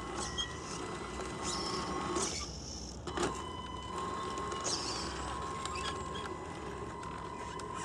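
A small electric motor in a Tamiya RC truck runs with a steady whine. It cuts out a little over two seconds in and starts again about a second later with a click.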